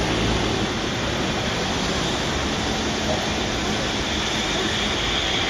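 Freight train running on the rails, a steady even rolling noise with no clear beat.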